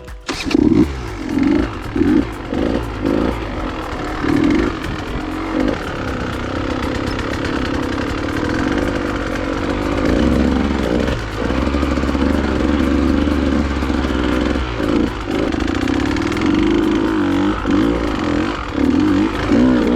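Dirt bike engine being ridden over rough trail. For the first few seconds the throttle is blipped in short repeated bursts, then the engine pulls steadily, with a few brief throttle chops.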